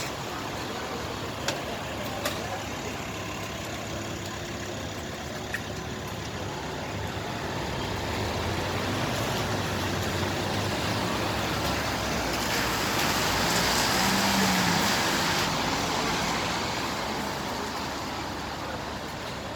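Street traffic noise: a motor vehicle passes on a wet street, its engine and tyre hiss swelling to a peak about two-thirds through and then fading. A few sharp clicks sound in the first few seconds.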